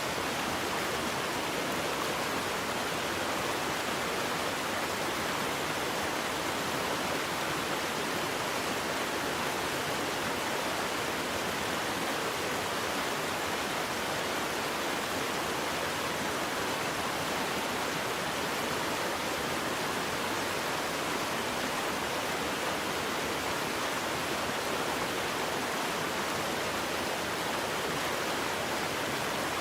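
Waterfall: water falling and splashing in a steady, unbroken rush that is strongest in the mid and upper range and never changes level.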